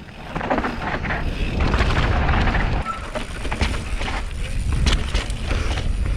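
Wind buffeting the camera microphone on a fast mountain-bike descent, a steady low rumble, with tyres on loose dirt and the bike rattling over bumps in frequent short knocks.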